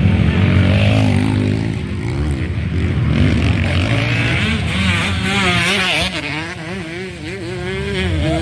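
Motocross bike engines revving up and down over and over as they race, the pitch rising and falling with the throttle.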